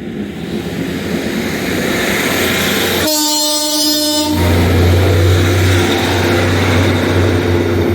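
Class 150 and 158 diesel multiple unit coming into the station, its noise growing, then sounding its horn once, a single steady note held for about a second and a half about three seconds in. A loud, steady low diesel engine drone follows as the train draws alongside.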